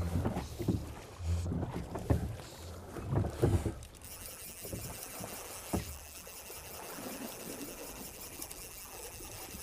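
Several dull thumps and knocks in a drift boat during a fish fight, loudest in the first four seconds, with one more knock about six seconds in; under and after them, steady rushing river water.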